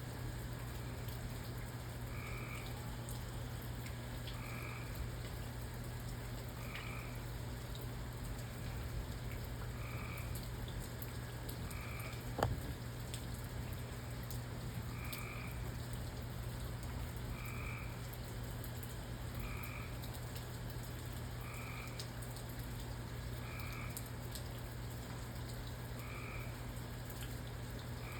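A frog calling at night, one short croak about every two seconds, over a steady hiss of rain. There is a low steady hum throughout and a single sharp click about halfway through.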